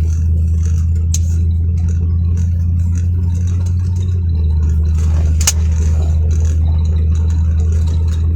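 Car cabin noise while driving: a steady deep engine and road rumble, with a sharp click about a second in and another about five and a half seconds in.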